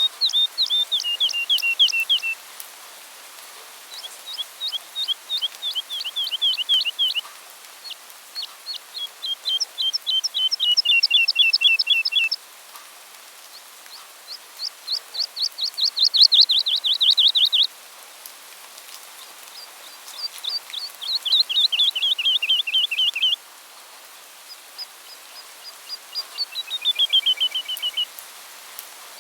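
A songbird singing six fast trilled phrases, each a rapid run of sweeping notes lasting a few seconds, with short pauses between them. Several phrases slide down in pitch toward their end.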